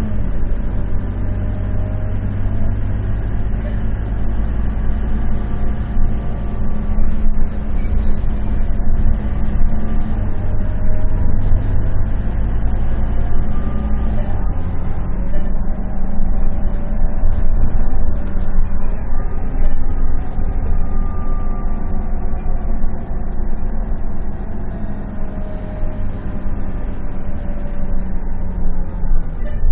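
Scania K230UB single-deck city bus's diesel engine running under way, with road noise. Its pitch climbs and falls as the bus accelerates and changes gear, with a drop about halfway through.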